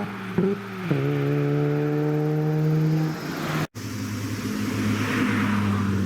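Car engine running: a quick blip of the throttle, then a rise in revs held steady for about two seconds before easing off. A sudden cut just before four seconds leads into another steady engine note.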